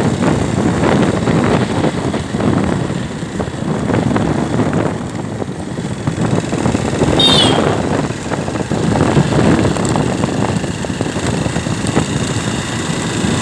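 Storm wind gusting hard and buffeting the microphone: a loud, uneven rush that swells and dips. About seven seconds in, a brief high wavering squeal cuts through.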